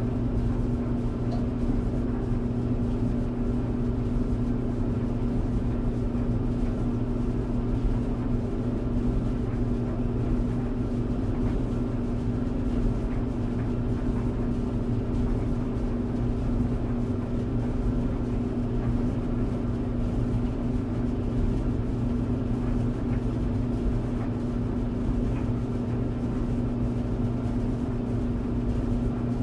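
Clothes dryer running steadily: a constant drone with a hum of a few steady tones and no distinct knocks.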